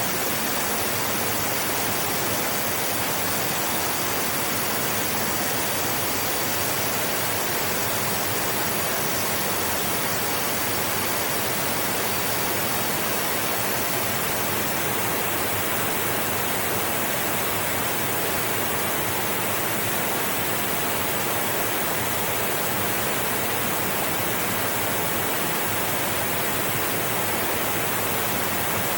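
Flowing river water: a steady, even rush with no distinct splashes or changes.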